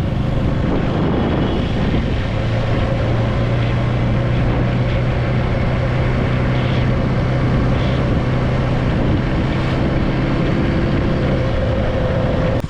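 KTM motorcycle engine running at a steady cruising pace, a constant low engine note with wind noise on the microphone. The sound cuts off abruptly near the end.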